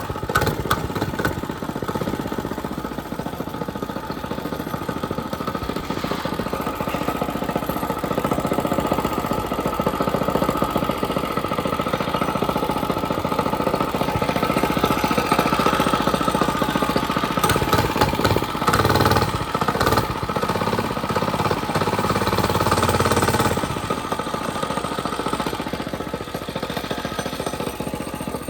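Mini bike's small gasoline engine running steadily while being ridden, louder for a stretch from about halfway through and then easing back near the end.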